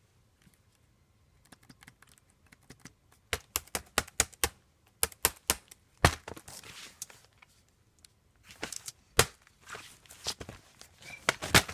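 Irregular clicking and tapping on a Chromebook's keys and buttons, in uneven clusters with a few louder knocks, as they are pressed over and over on a laptop that won't turn on.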